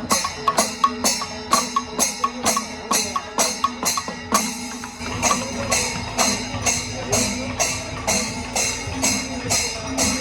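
Kerala temple festival percussion ensemble: drums and clashing hand cymbals (elathalam) beating a steady rhythm of about two and a half strokes a second, over a held low note.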